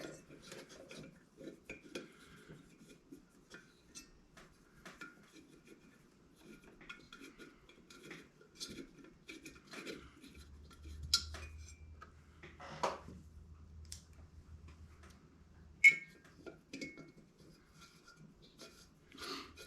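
Faint metal-on-metal clinks and taps from hand tools and small parts as a diesel heater is reassembled after cleaning, with one sharper, ringing clink about 16 seconds in.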